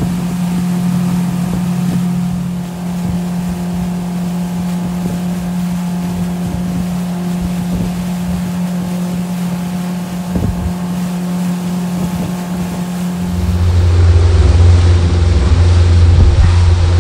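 Motorboat engine running at a steady pitch, with rushing wind and water noise. Near the end it gives way to a louder, deeper steady hum.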